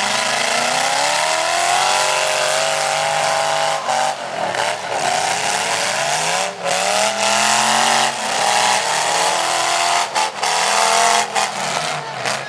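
Demolition derby trucks' engines revving hard under acceleration, the pitch climbing over a few seconds, dropping off and climbing again about three times, over a steady hiss.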